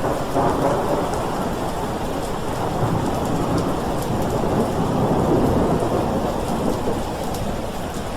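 Thunderstorm: steady rain with a deep rolling thunder rumble that swells about half a second in and again through the middle.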